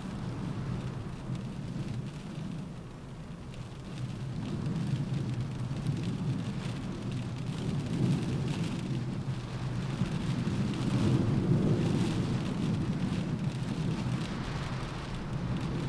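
Rain pattering on a window in a windstorm, with a low rumble of wind gusts that swells in the middle of the stretch and peaks near the end.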